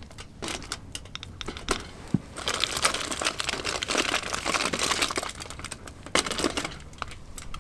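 Irregular crinkling and rustling of wrapping under the food, with scattered sharp clicks, as hands fold and press the bacon weave around the sausage and cheese.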